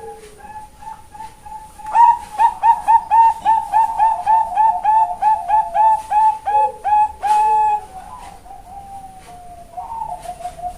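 Female Bangkok-type zebra dove (perkutut) singing. After a few soft coos, a fast run of loud, evenly spaced coos starts about two seconds in, roughly three a second for some six seconds, then trails off into softer, lower coos.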